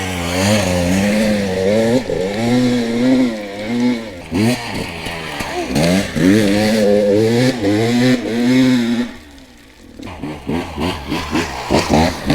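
Dirt bike engine revving up and down under changing throttle while riding a trail. About three-quarters of the way through it drops back almost to a lull, then picks up again with a series of short throttle blips.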